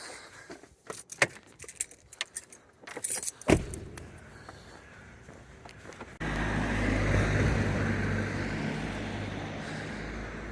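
Keys jangling and clicking for a few seconds, then a car engine running, low and steady; about six seconds in it suddenly becomes much louder and keeps running, as when driving off.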